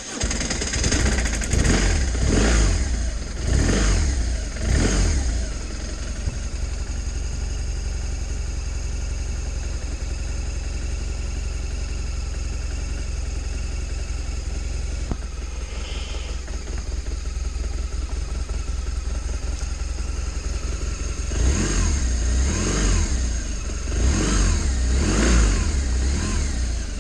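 Motorcycle engine just after being cranked, revved up and down in a run of short blips, then settling to a steady idle, and revved again in several blips near the end.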